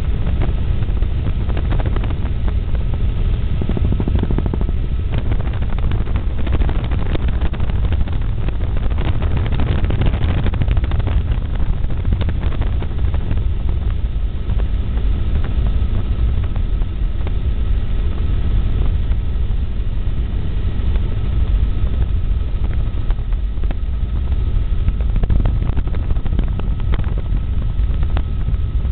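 Helicopter in flight heard from on board: a loud, steady rumble of rotor and engine, with a thin steady whine above it.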